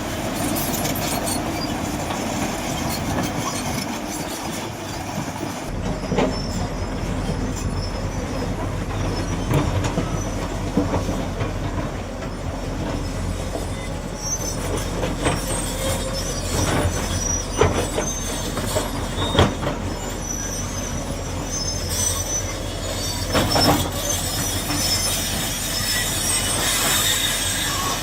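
Excavator at work: its diesel engine running under a steady mechanical din, with scattered metal clanks and squeals. A low steady hum comes in about five seconds in.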